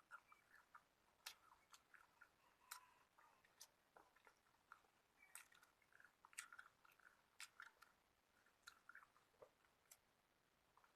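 Quiet close-up chewing: irregular soft mouth clicks, smacks and small crunches of food being eaten.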